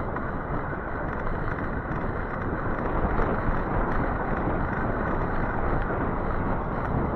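Steady rumble of wind on the microphone mixed with tyre noise from an e-bike rolling along a rain-wet road.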